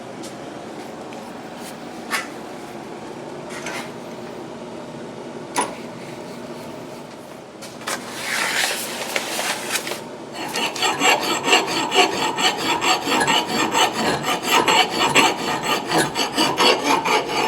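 Steel hand file rasping across the bit of an axe head to sharpen the edge. A few light clicks come first, then one longer stroke about eight seconds in, then quick, even file strokes at about four a second from about ten seconds in.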